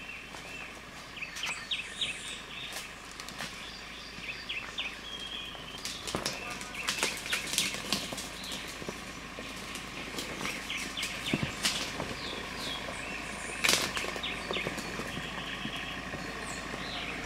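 Birds chirping repeatedly in forest, with scattered sharp snaps and crackles over a low steady background.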